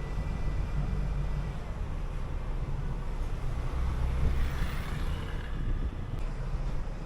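City bus running along the road, heard from on board: a steady low engine rumble under road noise, with a brief swell of higher noise about two-thirds of the way through.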